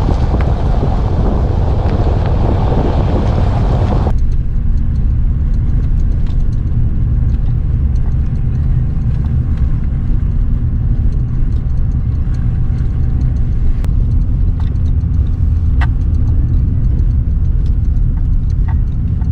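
Car driving, heard from inside: a loud rushing hiss for about four seconds, which stops abruptly, then a steady low rumble of engine and tyres with a few light clicks.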